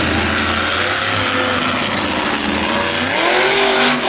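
Monster truck engine running loud, then revving up with a steep rise in pitch about three seconds in.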